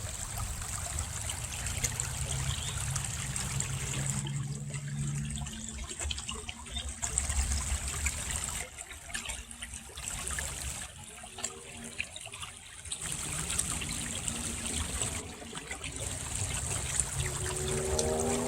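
Small brook burbling and trickling steadily. Near the end a pitched engine hum comes in under the water, rising in pitch.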